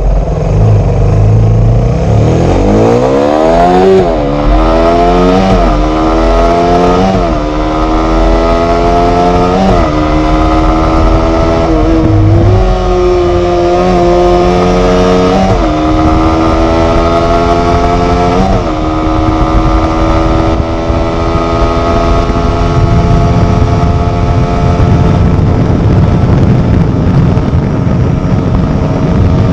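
Suzuki Raider 150's stock-exhaust engine accelerating hard through the gears. Its pitch climbs and drops back at each upshift, then holds steady at high revs for the last several seconds under a heavy low rush of wind noise.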